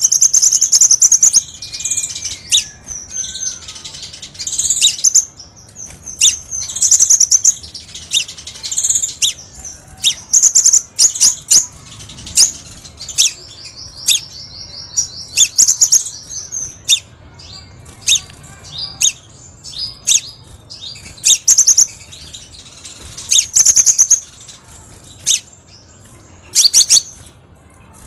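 Crimson sunbird song: high, sharp chirps and twittering phrases repeated every second or two with short gaps, and a fast trill about halfway through.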